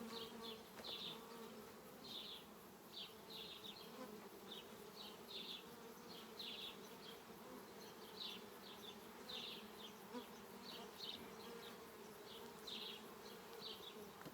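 Honeybees buzzing around an opened hive, a faint steady hum. Short high chirps repeat irregularly over it, about twice a second.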